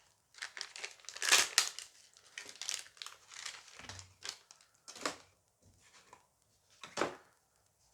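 Foil booster pack being torn open and crinkled in the hands, a run of irregular rustling and crackling, loudest about a second in and again near the end.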